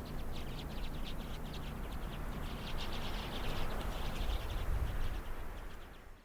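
A large flock of common redpolls twittering, many short chirps overlapping continuously, over a low rumble. It fades out near the end.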